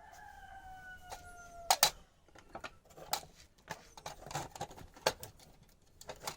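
A drawn-out pitched call, sliding slightly down in pitch, runs for the first second and a half or so. It gives way to a string of sharp clicks and knocks as small hard objects are picked up and set down on a work surface.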